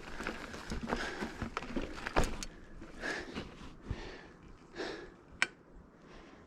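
Mountain bike riding over a rough trail: irregular clicks, knocks and rattles from the bike over a rustle of tyre noise. It is busiest in the first couple of seconds, then quieter, with one sharp click near the end.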